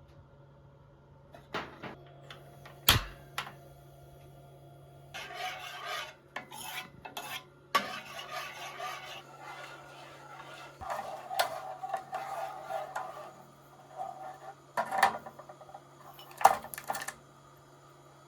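Cutlery and dishes clinking and scraping: several sharp knocks and clinks, with stretches of scraping through the middle. A steady low hum runs underneath.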